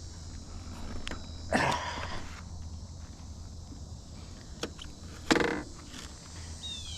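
Handling noise from a stopped bike and its camera: two short rustles, about one and a half and five and a half seconds in, and a few light clicks over a steady low rumble.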